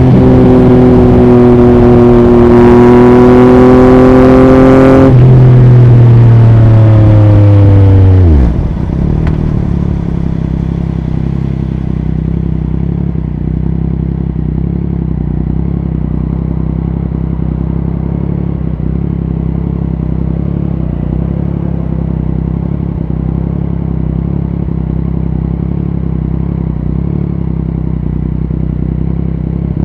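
2021 Yamaha MT-09's 890 cc inline-three through an Akrapovic racing exhaust: pulling with rising pitch for about five seconds, then the throttle closes and the pitch falls away. About eight seconds in it settles to a steady idle.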